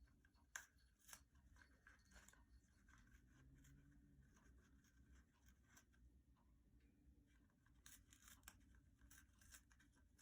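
Faint, scattered crinkling and tearing of toilet paper as a Congo African grey parrot shreds it.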